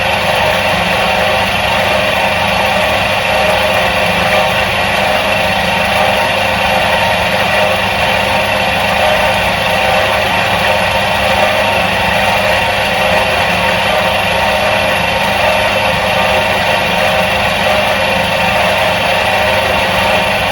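Electric motor of a 1977 Soviet washing machine running steadily: an even hum with a whir above it, unchanging.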